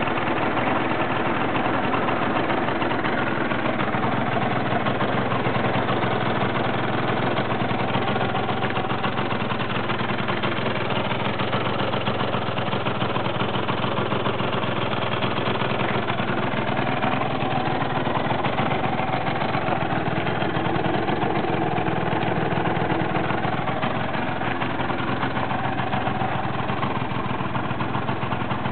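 Yamaha 4VP two-stroke scooter engine, bored up to 112cc, idling steadily.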